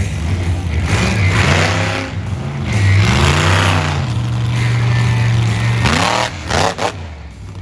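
Monster truck engine revving hard in repeated bursts over a steady low rumble, its pitch climbing and falling with each rev; the strongest, quickest revs come about six seconds in.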